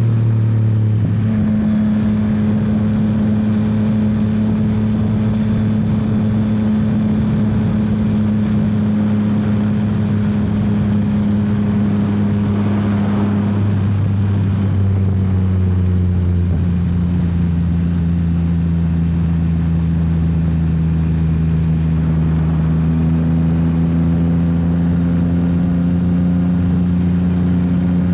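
Yamaha XSR900's inline three-cylinder engine pulling hard under way. It holds steady revs, with a few shifts in pitch about a second in and again midway, then climbs slowly toward the end.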